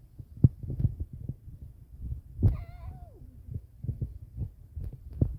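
Irregular dull thumps and rubbing on a phone microphone being carried while walking. About halfway there is one short drawn-out voice sound that falls in pitch.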